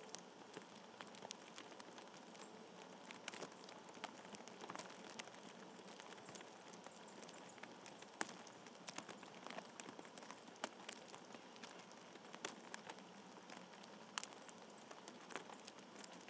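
Faint, irregular small ticks and taps, several a second, over a quiet outdoor background.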